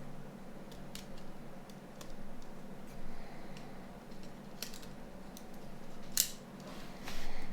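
Small clicks and scrapes of tools and plastic parts being handled while a Nokia 9210 phone is taken apart, with a sharp click about six seconds in and a short rasping scrape near the end.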